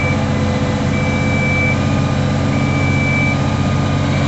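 Diesel engine of a Komatsu off-road spreader truck running steadily, with a high-pitched alarm beeping in long tones about every second and a half.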